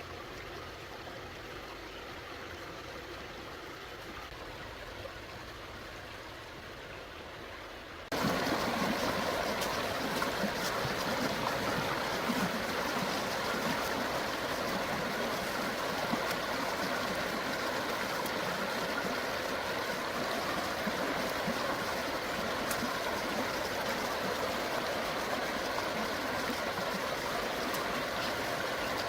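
Flowing stream water, a steady rushing and trickling. About eight seconds in it abruptly becomes louder and brighter and stays that way.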